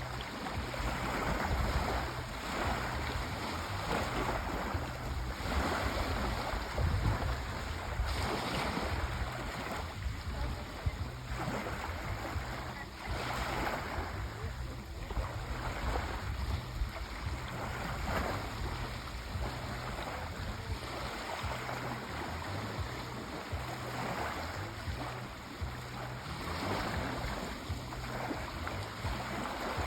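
Sea waves washing onto a shore, a continuous rush that swells and ebbs every few seconds.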